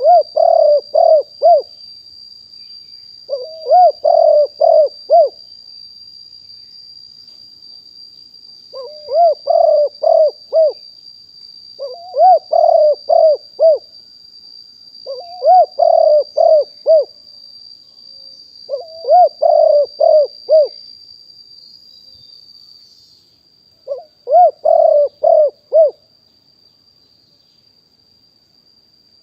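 Spotted dove cooing: seven short phrases of four or five low, rounded coos each, about a second and a half long, repeated every few seconds.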